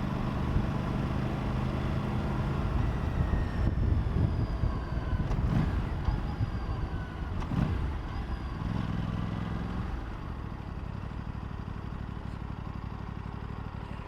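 Aprilia RS 457 parallel-twin motorcycle engine pulling away under throttle, its pitch rising and dropping a couple of times, then settling to a quieter, steady note from about ten seconds in.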